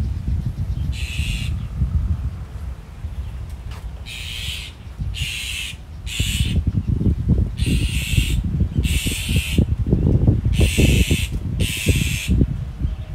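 A bird giving about eight short, harsh calls, one after another with gaps of about a second, over a loud, gusty low rumble.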